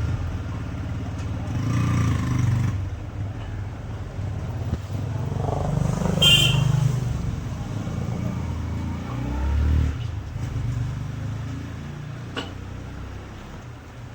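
Motor vehicle engines rumbling as traffic passes, swelling and fading, with a short high-pitched horn toot about six seconds in.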